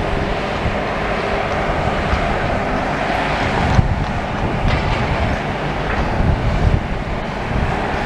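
Steady rumble of heavy diesel demolition machinery working, with a few short knocks and clatter about four seconds in and again near seven seconds, and some wind on the microphone.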